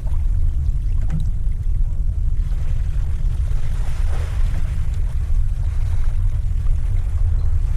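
Steady wind rumbling on the microphone over the wash of sea water, with the water noise swelling briefly about halfway through.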